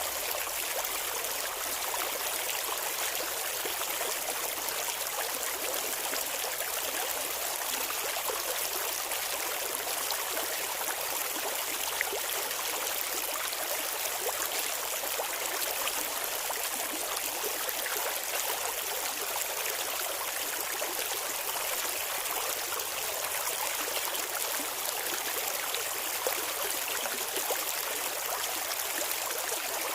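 Water of a clear river running and babbling in a steady, unbroken rush.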